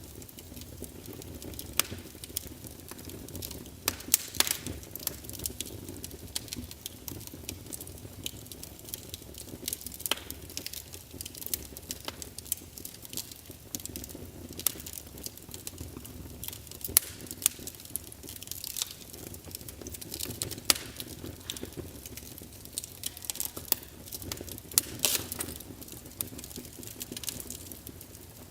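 Wood fire crackling in a fireplace: irregular sharp pops and snaps from the burning logs over a low, steady rumble of flame.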